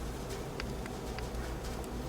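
Jaquet Droz Bird Repeater's minute-repeater and bird-automaton mechanism running: a faint whirring with light, scattered mechanical clicks over a background hum.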